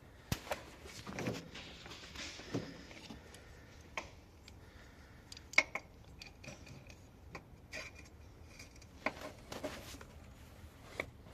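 Scattered metallic clinks and knocks at irregular intervals, like hand tools and small metal parts being handled and set down, with one sharper clink about five and a half seconds in.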